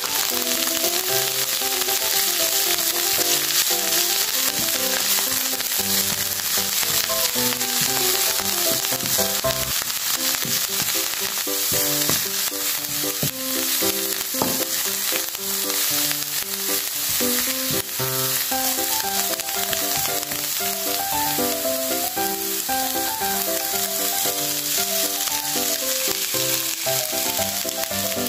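Chopped coriander and garlic sizzling in hot oil in a nonstick frying pan, stirred now and then with a wooden spatula. A background music melody plays over the frying.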